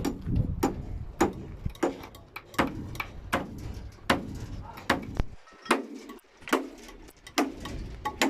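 Hammer blows on timber, as in nailing wooden roof formwork: sharp strikes in a steady rhythm, about three every two seconds.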